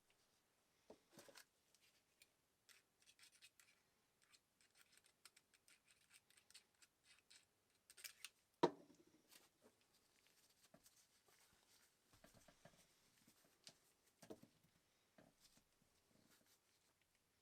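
Faint clicks and light scraping of small parts and tools being handled at the sewing machine, with one sharper knock about nine seconds in.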